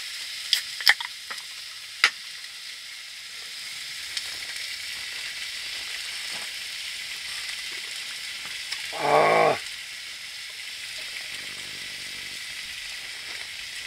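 Honeycomb-cut pork belly frying on a wood-burning stove: a steady sizzling hiss. A few sharp clicks come in the first two seconds, and a brief pitched sound about nine seconds in.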